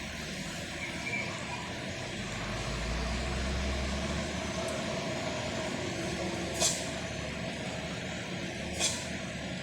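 Heavy dump truck passing in heavy rain: a steady hiss of rain and wet road under the low note of the diesel engine, which swells a few seconds in. Two short, sharp air-brake hisses come near the end, about two seconds apart.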